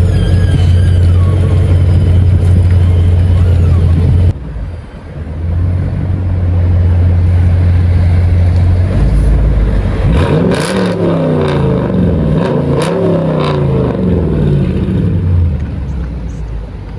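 Dodge Charger R/T 5.7 HEMI V8 exhaust, with the resonator removed, running at a steady loud idle. About ten seconds in it is revved over and over for several seconds, each rev rising and falling.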